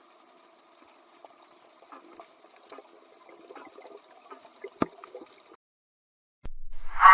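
Faint water bubbling and gurgling over a steady low hum, with scattered small pops; it stops, and after a short pause a loud animal sound begins near the end.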